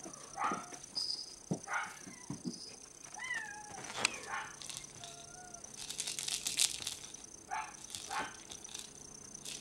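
Young Bengal kittens giving about seven short, high mews, one near three seconds in falling in pitch. A scratchy rustle comes between six and seven seconds in.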